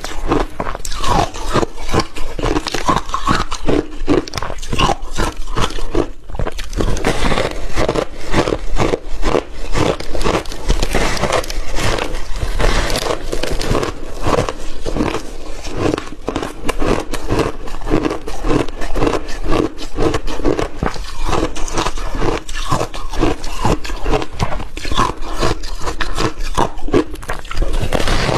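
Close-up chewing and crunching of frozen milky shaved ice, with rapid, continuous crunches.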